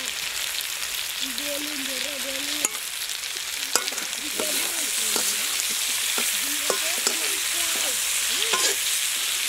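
Chicken and potato pieces sizzling as they fry in a metal wok, with a metal slotted spoon scraping and knocking against the pan as they are stirred, giving a few sharp clicks from about a third of the way in.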